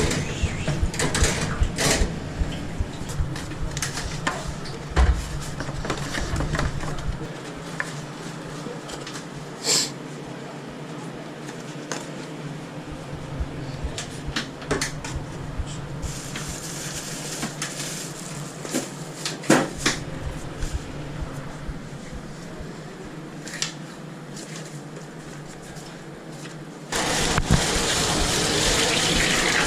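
Food-truck kitchen clatter: scattered knocks and clinks of utensils, pans and cupboard doors over a steady hum. Near the end, water starts running hard from a tap.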